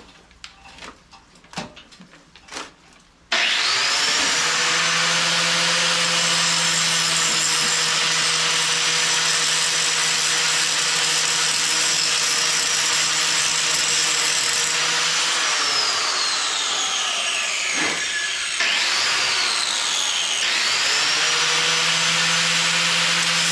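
A handheld electric power tool starts suddenly about three seconds in and runs steadily with a high whine. Near the end it winds down with a falling whine, is restarted, dips, and speeds back up.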